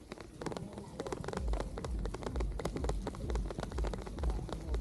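Rain tapping close to the microphone in rapid, irregular ticks. A low pulsing rumble comes in about a second and a half in.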